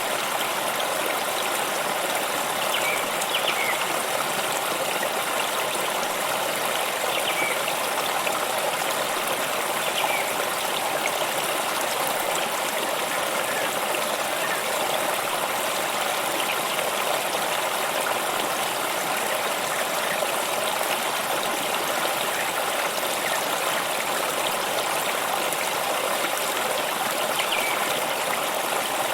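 Water stream flowing and trickling in a steady, even rush with no breaks.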